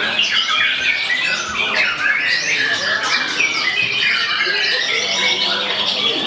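White-rumped shama singing a fast, loud stream of varied whistled phrases and trills, the song dense and overlapping with other songbirds at a contest.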